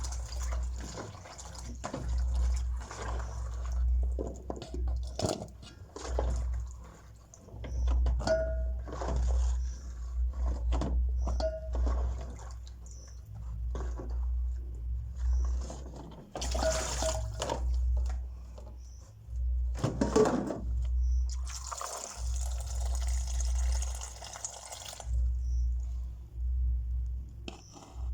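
Mushrooms being washed by hand in water: irregular splashing, dripping and the knock of a bowl, with a few seconds of water pouring in the second half.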